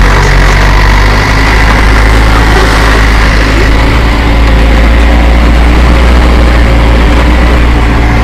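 Truck engine running steadily while the truck is being driven, a low, even drone.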